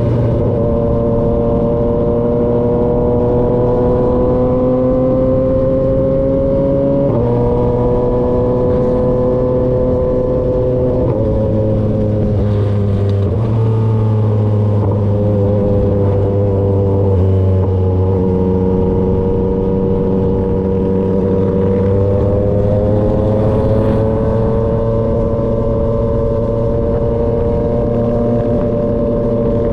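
Yamaha XSR motorcycle engine running through an SC-Project aftermarket exhaust while riding along at a steady, moderate pace. The engine note slowly rises and falls, with sudden small drops in pitch about seven and eleven seconds in.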